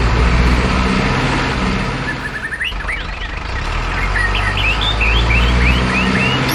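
A remote-control model truck running with a steady low drone and hiss. Birds chirp in quick rising notes from about two seconds in.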